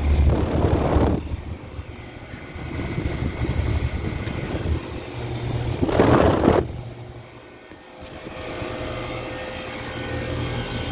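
Outdoor air-conditioning condensing units running with a steady low hum. Two loud rushes of air noise, about a second each, come at the start and about six seconds in.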